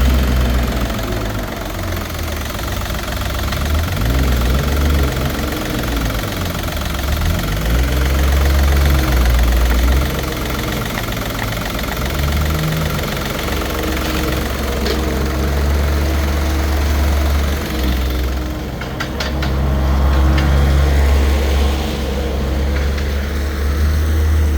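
VW 1.4 TDI PD three-cylinder diesel engine (code BNV) running at idle on an engine test, a steady low diesel rumble.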